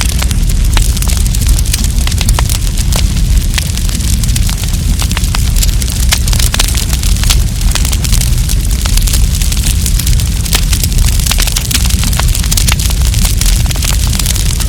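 Campfire burning, with frequent sharp crackles and pops over a steady low rumble of the flames.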